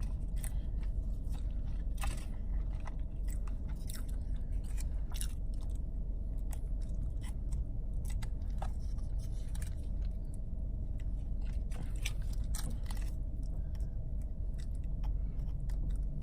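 Close-up chewing and mouth sounds of someone eating, with irregular wet clicks and crunches, over a steady low hum.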